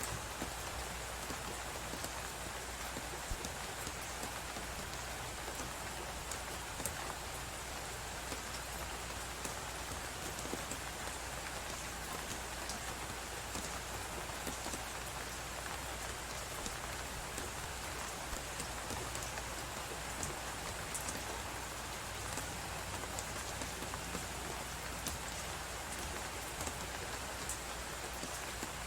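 Wood fire crackling with frequent sharp pops over a steady hiss of blizzard wind.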